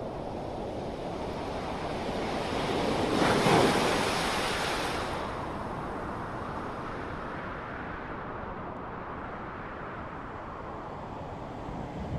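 Steady traffic rush with one vehicle passing close by, swelling to a peak about three and a half seconds in and then fading away.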